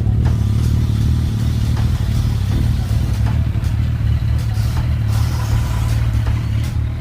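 Freshly rebuilt Suzuki GSX1300R Hayabusa inline-four engine running steadily.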